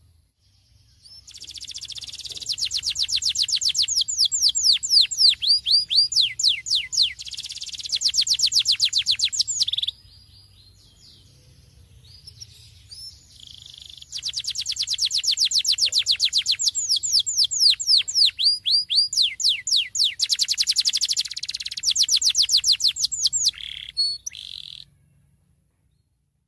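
Domestic canary singing in full voice with rolling trills: two long song phrases of fast repeated notes sweeping down in pitch, with a pause of a few seconds between them.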